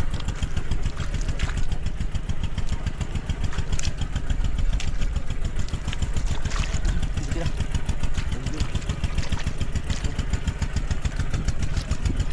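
Small engine running steadily, with a fast, even firing rhythm.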